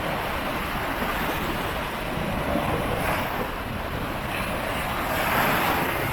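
Sea waves washing onto the shore, swelling louder about halfway through and again near the end, with wind buffeting the microphone.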